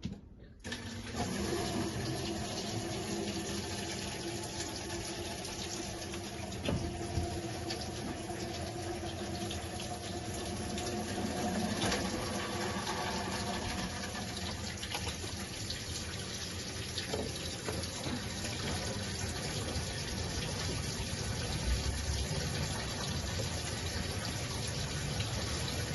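Hot water tap running steadily, turned on to draw hot water and test that the re-pressurised boiler fires, with a faint steady hum beneath the flow.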